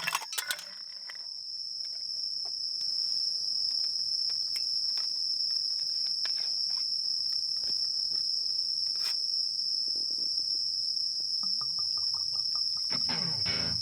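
Insects chirring in a steady, unbroken high tone. Light metallic clinks sound in the first half-second, a quick run of small ticks comes near the end, and soft guitar music starts just before the close.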